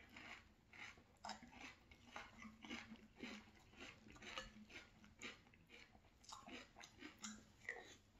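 Close, faint chewing of a mouthful of frosted corn flakes cereal in milk, with soft, crisp crunches about two to three times a second.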